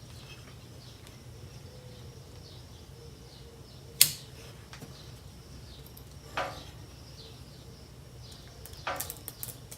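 Sharp metallic clicks: one loud snap about four seconds in, a softer one a couple of seconds later and a few quick clicks near the end, over a low steady hum.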